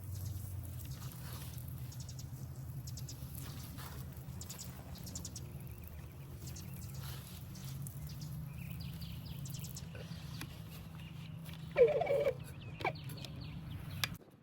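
Steady low outdoor rumble with faint high chirps, and near the end a brief, loud animal call.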